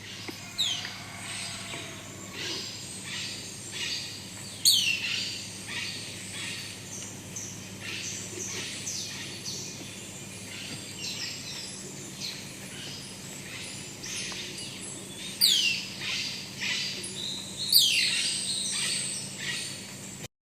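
Golden-collared manakin calling: a dense run of short, sharp notes, broken by loud downward-sweeping calls. The loudest comes about four and a half seconds in, and two more come near the end.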